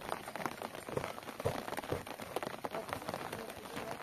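Rain pattering steadily, a dense patter of small drops with a few light thumps.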